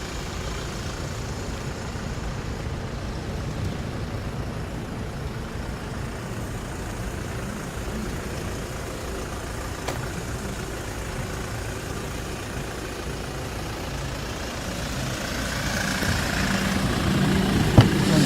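Hyundai Porter II light truck idling steadily, growing louder near the end, with a single sharp click just before the end.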